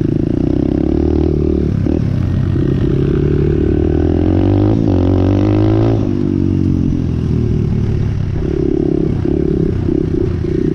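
Dirt bike engine running while being ridden, its pitch rising and wavering about halfway through, then easing off.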